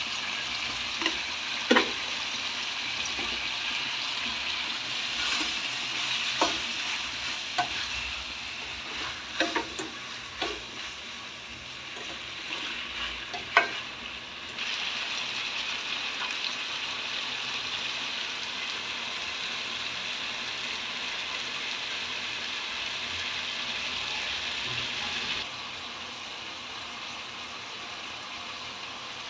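Chicken gizzard curry sizzling in a pan as it fries, with a spoon knocking and scraping against the pan several times in the first half. The sizzle turns quieter near the end.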